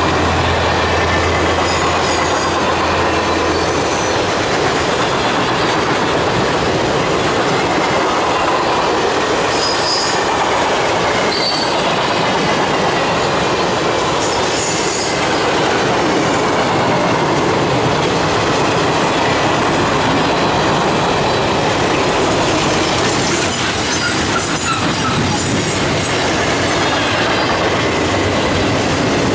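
Train cars rolling past close by, passenger cars then flatcars: a steady loud rush of steel wheels on rail, with a few brief high wheel squeals near the middle.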